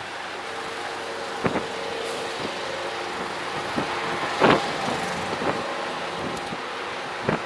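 A car driving on a snowy street: steady engine and road noise with a faint hum, broken by several irregular knocks and clunks, the loudest about halfway.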